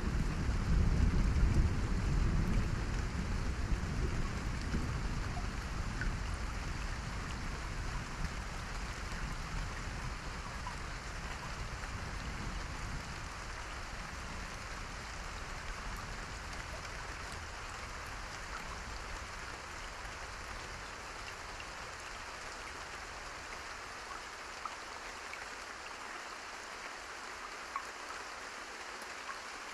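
Steady rain falling, with a low roll of thunder at the start that slowly dies away over the first several seconds, leaving only the rain.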